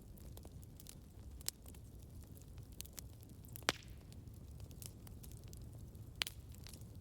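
Campfire burning: a steady low rumble of the flames with scattered sharp crackles and pops from the burning wood, the loudest pop a little past halfway.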